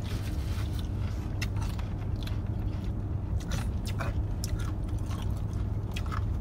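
People chewing and biting into cheeseburgers, with scattered short wet mouth clicks over a steady low hum.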